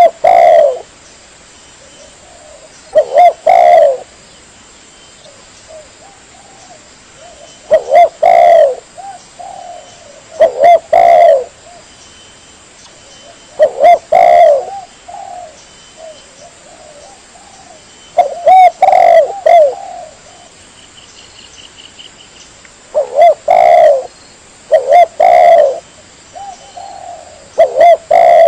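Spotted dove (tekukur) cooing, a lure-call recording for attracting doves. Its phrases repeat every few seconds with short pauses between, loud enough that the strongest notes crackle with distortion.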